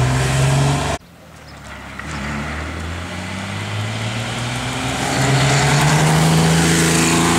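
A car engine runs loud, then cuts off suddenly about a second in. A Porsche 911's air-cooled flat-six then comes closer and closer, its note growing louder and slowly rising in pitch as it accelerates up to and past the microphone.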